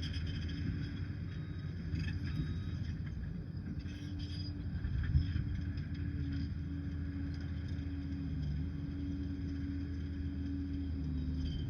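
Liebherr PR 746 crawler dozer's diesel engine running steadily under work, with a single sharp knock about five seconds in.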